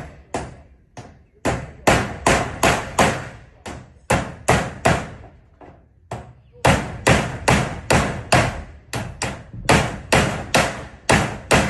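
Hammer driving nails into zinc roofing sheets: quick runs of sharp blows, about three a second, broken by short pauses.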